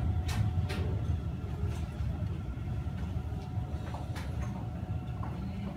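Steady low rumble inside a Seibu 30000 series electric train car running on the rails, slowly getting quieter as the train slows, with a faint steady hum and a few sharp clicks.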